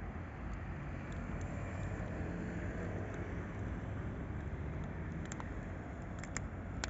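Low steady rumble and hum of electric trains in a rail yard, a little louder in the middle, with a few short, sharp metallic clicks about five to seven seconds in.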